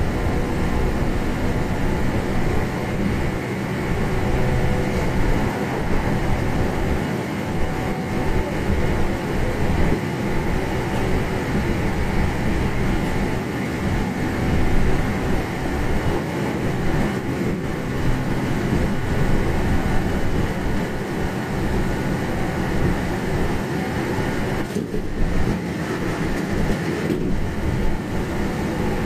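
Running noise heard inside a Meitetsu 1200-series electric train car at high speed, close to 120 km/h: a steady loud rumble of wheels on rail with a faint hum from the running gear, without a break.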